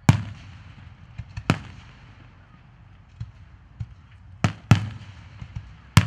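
Aerial fireworks shells bursting overhead: a sharp bang right at the start, another about a second and a half in, and a quick pair of bangs past the middle followed by one more near the end. Fainter pops come between them, and each bang trails off in echo.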